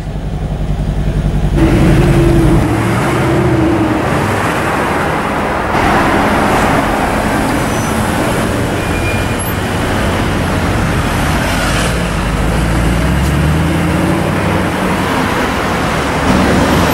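Mercedes-AMG V8 engines running in the street, first an E63 AMG, then an SLS AMG pulling away, its note climbing as it accelerates near the end, with traffic noise around it.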